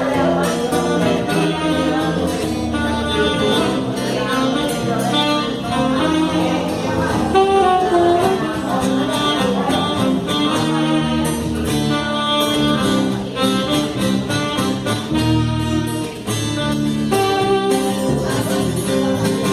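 Saxophone playing an instrumental melody over strummed acoustic guitar.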